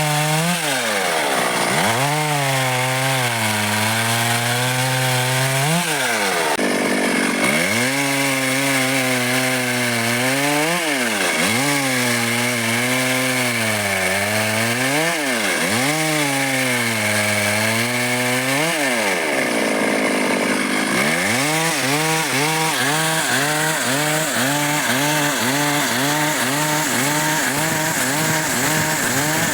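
Stihl MS 382 two-stroke chainsaw cutting dry wood, its engine note sagging and recovering again and again as the chain bites and eases, with quicker short dips near the end.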